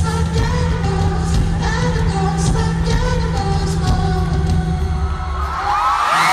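Live pop-rock band playing with singing, heavy bass and drum hits, heard from within the audience. Near the end the bass drops out and rising high cheers and screams from the crowd begin.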